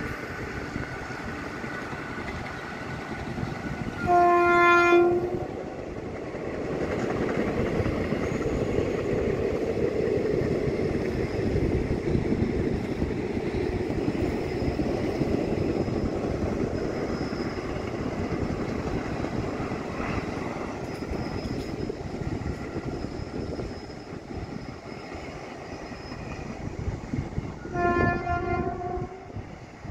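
An Indian Railways passenger train's electric locomotive sounds its horn once for about a second, and again near the end, over the steady rumble and clatter of the long train of coaches running past on the curve.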